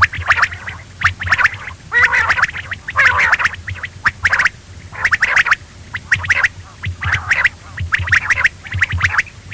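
Quail calling: short chattering phrases about once a second, each a quick run of sharp notes.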